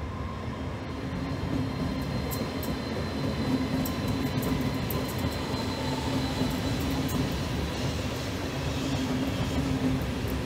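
Frecciarossa high-speed electric train running past on the tracks: a steady rumble of wheels on rail, with a thin high whine through the first half and scattered light clicks.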